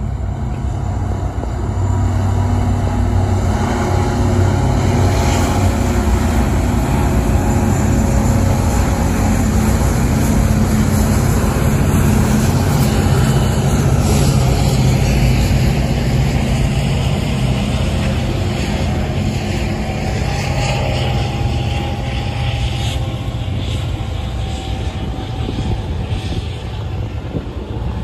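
Norfolk Southern freight train passing: the diesel locomotive's engine drones steadily as it goes by. In the later part the freight cars roll past with rising wheel-on-rail rumble and rushing.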